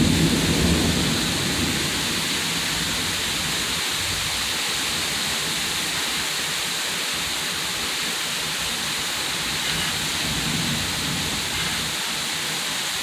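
Heavy tropical-storm rain pouring steadily, a dense even hiss, with a low rumble in the first couple of seconds.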